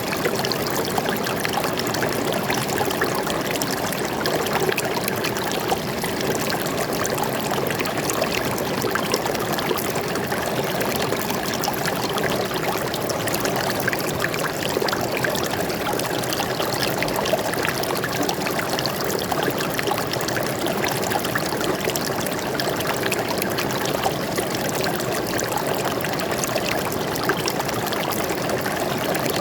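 Water flowing and splashing steadily over rocks in a forest stream, a continuous rushing with fine bubbling and trickling detail.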